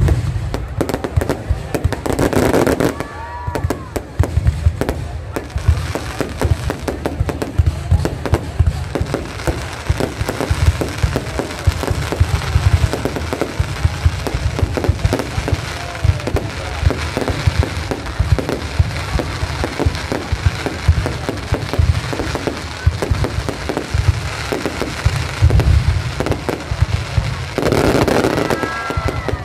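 Aerial fireworks display: a continuous barrage of shell bursts, heavy bangs under dense crackling.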